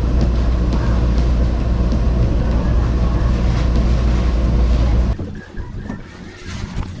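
Car driving: a steady low rumble of road and engine noise, which stops abruptly about five seconds in, giving way to quieter wind noise.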